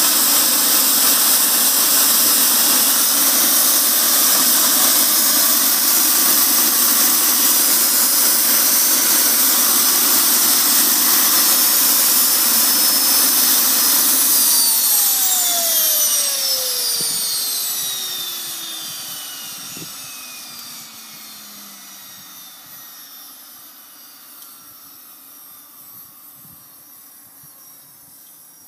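Jet engine running steadily with a loud rushing whine, then shut down about halfway through: its whine glides down in pitch and fades as the turbine spools down.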